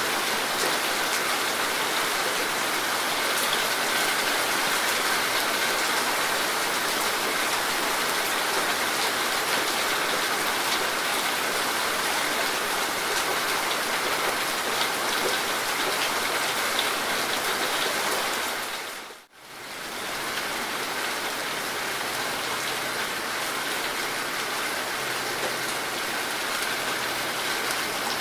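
Heavy rain falling steadily in a dense patter. About two-thirds of the way through it fades out for a moment and comes straight back in.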